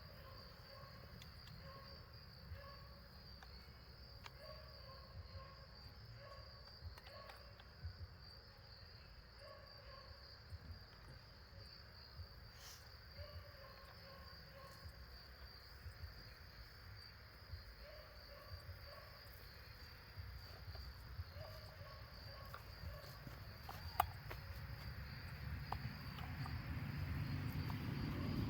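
Steady high insect chirring, with a repeating faint call a little lower in pitch and a few faint clicks and taps.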